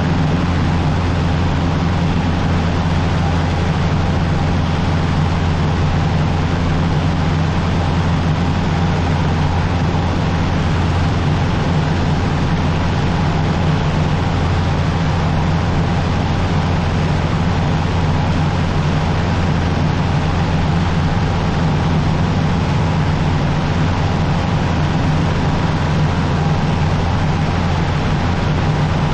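Cessna 150's four-cylinder Continental O-200 engine and propeller running steadily, a constant low drone with no change in pitch.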